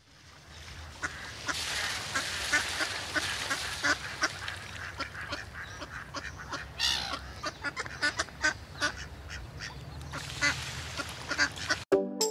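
A flock of ducks and geese calling: many short quacks and honks in quick succession over a steady hiss, fading in at the start and cutting off suddenly near the end.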